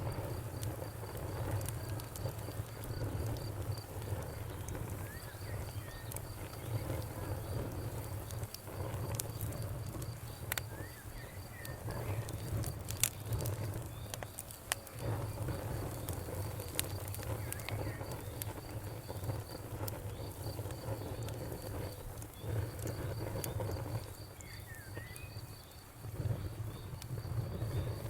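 Wood fire crackling, with scattered sharp pops over a low rumble of flames. A cricket chirps steadily in rapid, even pulses alongside.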